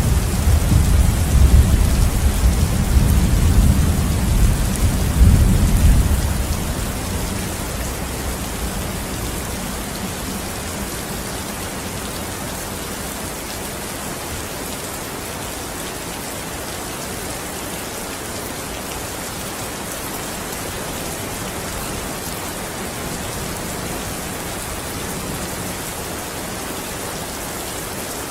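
Steady rain falling, an even hiss, with a deep rumble of thunder in the first six seconds that dies away, leaving the rain alone.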